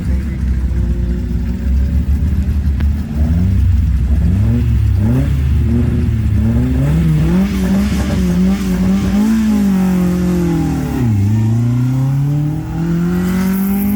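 Historic rally car engine at a stage start: idling, then blipped repeatedly with the throttle, revs rising and falling. About eleven seconds in the revs dip sharply and then climb steadily as the car launches and accelerates away.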